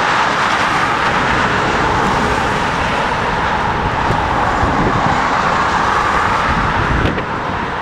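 Jet airliner engine noise, a loud steady rush, with strong wind buffeting the microphone; it eases a little about seven seconds in.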